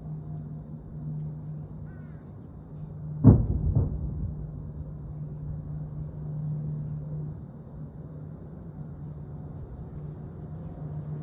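Sonic boom: a sharp loud double bang, two cracks about half a second apart, over a steady low drone. Faint high chirps repeat at an even pace throughout.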